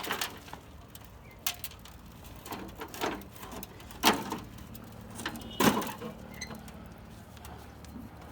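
Hard chunks of construction debris knocking and scraping as they are tipped up and set into place by hand: a handful of separate sharp knocks a second or so apart.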